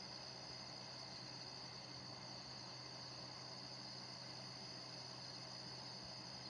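A steady, faint night chorus of crickets, with the low, even hum of an air-conditioning unit running beneath it.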